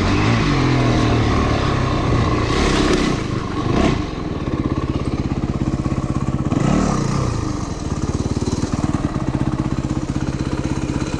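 Motorcycle engine riding on a dirt trail, then dropping to a steady, evenly pulsing idle about four seconds in, with one short blip of the throttle a few seconds later before it settles back to idle.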